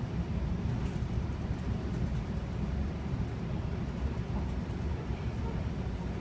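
Steady low rumble of a moving NJ Transit passenger train, heard from inside the coach as it runs at about 55 mph and gathers speed.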